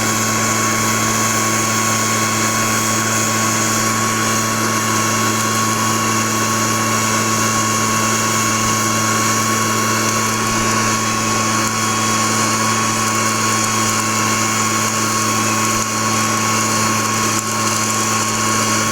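A small motor running steadily at one constant pitch, a low hum with a thin higher whine over it.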